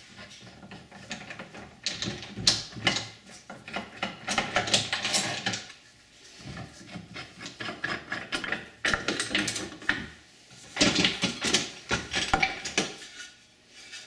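Wooden pieces and clamps being handled during a glue-up: clattering clicks and knocks in three busy spells with short lulls between.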